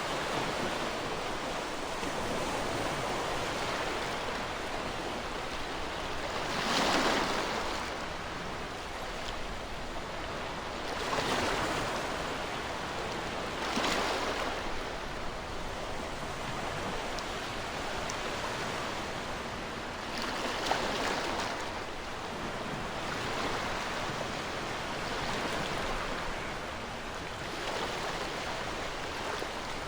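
Ocean waves washing onto a shore: a continuous hiss of surf, with a louder wave breaking every few seconds.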